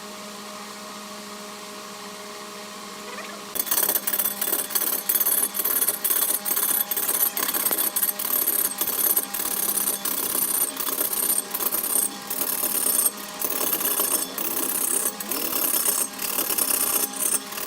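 A wood lathe's motor hums steadily. About three and a half seconds in, a turning tool starts scraping the spinning wood in rapid, choppy strokes, loud and rasping, that stop and start many times.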